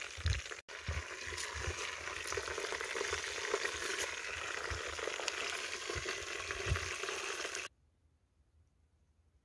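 A whole chicken sizzling in hot fat and juices in a metal pot, a steady frying hiss with a few low knocks as it is turned. The sizzle cuts off suddenly near the end.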